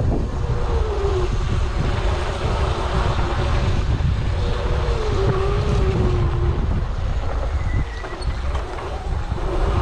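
Wind buffeting the microphone of a camera riding along on an electric dirt bike on a sandy trail, with a steady rush of wind and trail noise. A faint electric motor whine wavers in pitch twice, about a second in and again midway.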